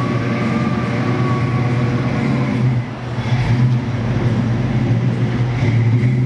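Rebuilt 289 V8 of a 1965 Ford Mustang GT, with an upgraded camshaft and exhaust, running at low revs as the car pulls slowly away, with a short dip in level about three seconds in.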